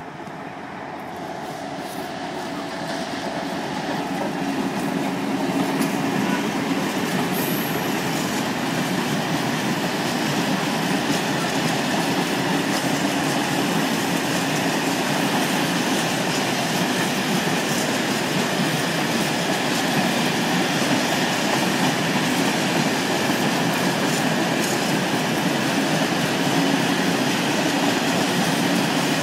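Freight train of tank wagons rolling past on the rails. Its wheel and rail noise grows louder over the first five or six seconds, then holds steady.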